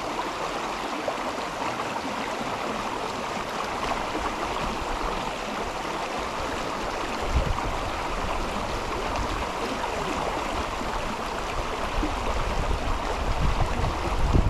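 Mountain river flowing over stones, a steady rushing and babbling of water. From about halfway in, low buffets of wind on the microphone come and go, stronger near the end.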